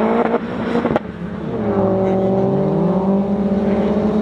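Tuned race car engines running hard as cars accelerate down the strip: the engine note climbs in pitch, breaks off sharply twice in the first second, then settles into a steady drone.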